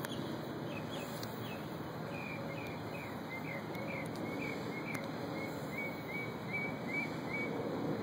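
A small bird giving a run of short, quick, downward-sliding chirps, a few a second, over a steady background noise.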